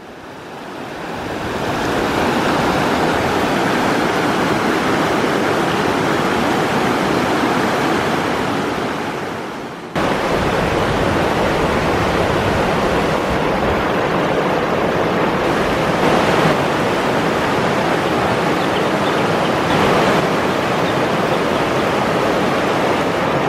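Rushing white water of a river rapid, a loud, steady noise. It fades up over the first two seconds, dips briefly and cuts back in sharply about ten seconds in.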